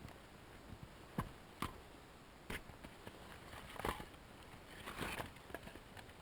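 Dry, crisp sounds of wood being worked by hand: a few sharp cracks and two rougher crunching scrapes, as firewood and kindling are cut and handled.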